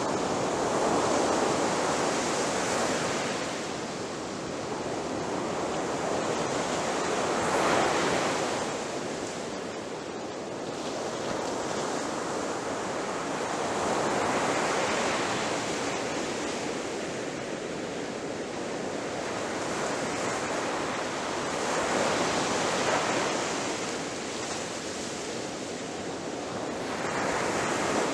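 Ocean waves breaking on a shore: a steady wash of surf that swells and fades, with a wave surging in about every seven seconds.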